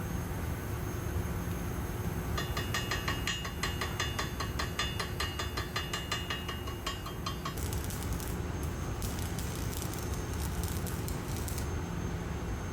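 Steady low machinery rumble. A rapid, even run of sharp metallic ticks with a ringing edge starts about two seconds in and lasts about five seconds. A stretch of crackly high hiss follows.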